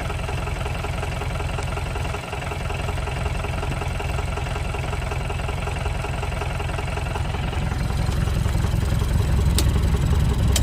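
Vehicle engine running steadily while driving, a low rumble heard from inside the vehicle that grows louder about eight seconds in. A single sharp click comes about nine and a half seconds in.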